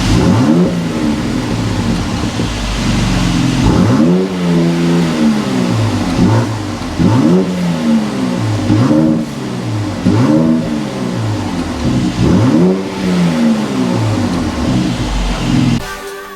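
Mercedes-AMG C43's 3.0-litre twin-turbo V6 and exhaust being revved about seven times, each rev rising quickly and falling back to idle, with about a second or two between them.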